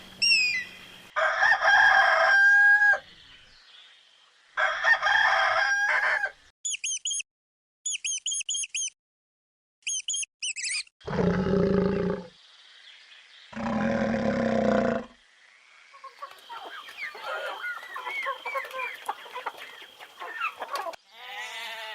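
Chickens: a rooster crows twice, each crow ending on a held note, followed by groups of short high chirps, two more loud calls, and a run of quick clucking near the end.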